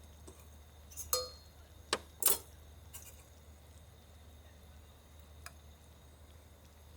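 Tableware clinking: a handful of sharp knocks and clinks, one with a short ring, bunched in the first three seconds and one faint clink later, over a steady low hum.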